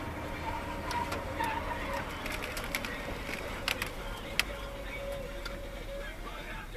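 A car on the road: steady low engine and road rumble with a faint held tone, and a few sharp clicks around the middle.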